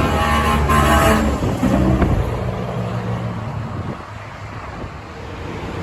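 A truck passing by: engine noise that falls in pitch and fades after about a second and a half, leaving steady road and traffic noise.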